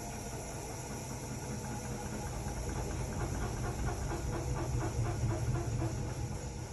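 Hotpoint-Ariston RSG 825 J washing machine running mid-cycle: a steady hiss with a rhythmic pulsing, about four a second, that swells in the middle and fades near the end.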